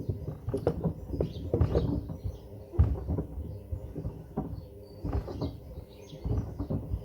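Pieces of wood knocking and clattering irregularly against the drum of a Hoover washing machine as it tumbles, with one heavier knock about three seconds in. Faint high chirps sound above the clatter.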